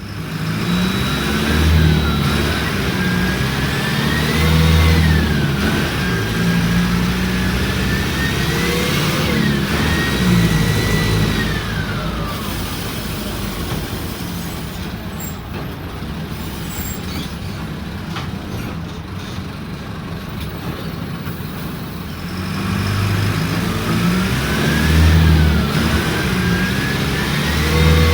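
Mercedes-Benz OF-1722M bus engine accelerating under load, with a whine that climbs and then drops several times as it picks up speed. It eases off about halfway through and pulls hard again near the end.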